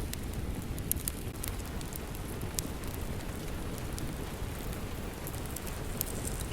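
Steady rain with a low rumble, over scattered sharp pops and crackles from a wood fire in a fireplace.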